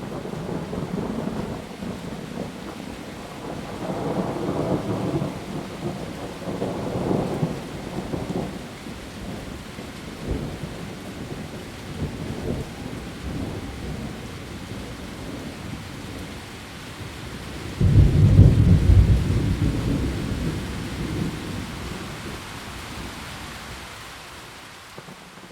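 Heavy rain falling steadily on leaves, with thunder rumbling in swells; a loud, sudden thunderclap about three-quarters of the way through rolls away over several seconds.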